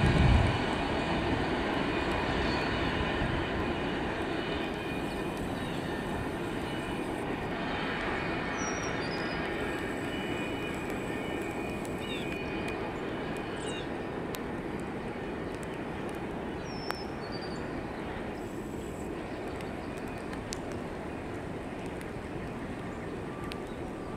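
Freight train's cars rolling on the rails and moving away, a steady rumble that slowly fades, with a single loud knock right at the start.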